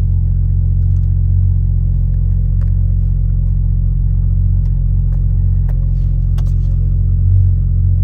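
Toyota A90 Supra's turbocharged straight-six idling at the raised cold-start catalyst heat-cycle idle through a Leviathan turbo-back exhaust with resonators in: a steady, deep exhaust rumble, the loudest part of the exhaust's warm-up. A few faint clicks sound over it.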